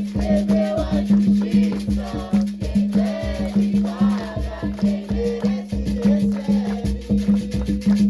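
Afro-Brazilian religious drumming: hand drums struck in a fast, steady rhythm with rattles and shakers, while voices sing a chant over it.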